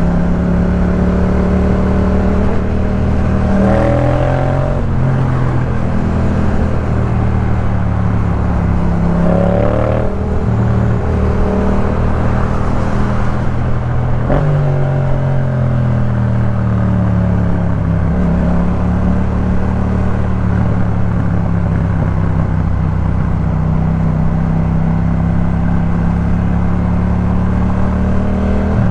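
Yamaha MT-07's 689 cc parallel-twin engine running loud through an aftermarket Jeskap K4 full exhaust system. Engine speed rises and falls several times, with a sharp jump in pitch about halfway through.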